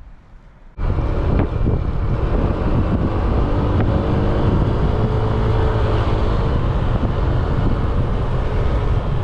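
Wind rushing over the microphone of a moving motorbike, with the bike's small engine running under it. It cuts in suddenly about a second in and stays loud and steady.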